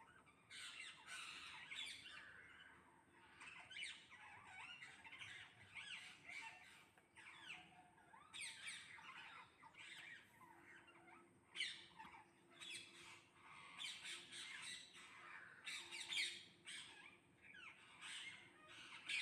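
A flock of parrots screeching: faint, harsh squawks in short clusters, coming and going at irregular intervals.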